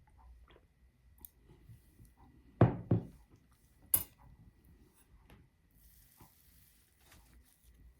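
Handling noises with two solid knocks about a third of a second apart, then a sharp click about a second later: hard objects being knocked and set down.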